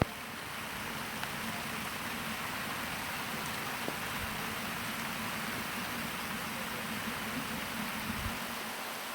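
Steady rain falling on desert ground, an even hiss with a few faint drop ticks.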